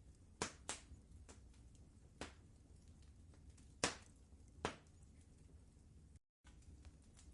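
Wood fire crackling: a handful of sharp pops and snaps, the loudest about four seconds in, over a low steady rumble. The sound cuts out completely for a split second about six seconds in.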